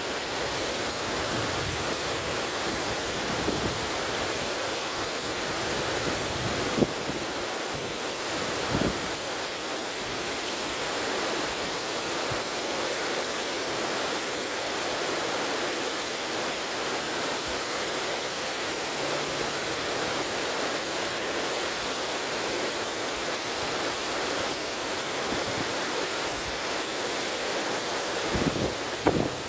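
River water rushing steadily, with wind. A few brief low thumps of wind buffeting the microphone, the sharpest about seven seconds in and several more near the end.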